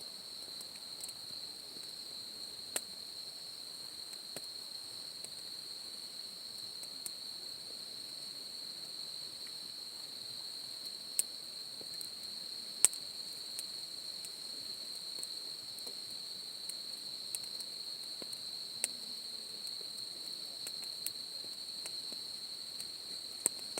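Steady high-pitched chirring of crickets, with scattered sharp pops and crackles from a wood campfire, the loudest about 13 seconds in.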